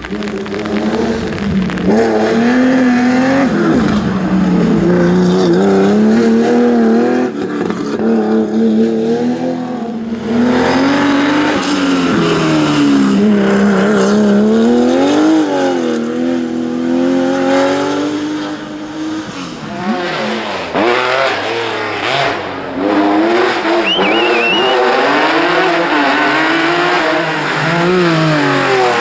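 Historic rally cars driven hard on a special stage, engines revving up and falling back again and again through gear changes and lifts for corners. A short tyre squeal about three-quarters of the way through.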